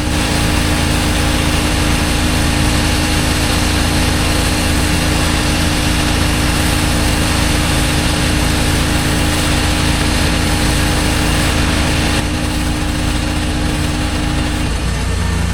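Pressure washer running steadily: the steady drone of its engine and pump under the hiss of the high-pressure water spray. One steady tone in the drone drops out near the end.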